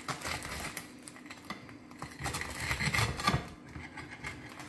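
Knife cutting into the crisp baked crust of a stuffed loaf on a plate: a quick run of crackling scrapes and clicks, busiest and loudest two to three seconds in.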